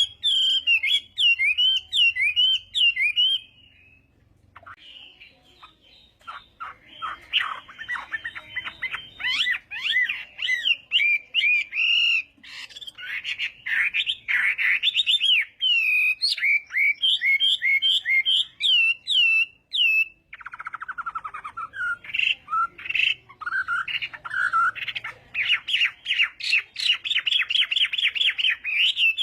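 Chinese hwamei singing a loud, varied song of whistled slurred notes and fast rapid-fire trills. It breaks off for a couple of seconds about four seconds in, then resumes.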